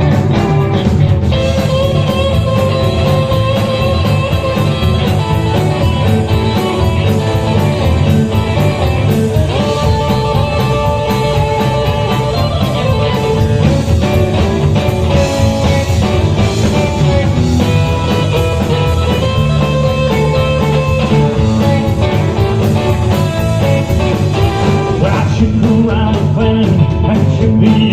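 Rock and roll band playing an instrumental break: lead guitar over drums and bass with a steady driving beat.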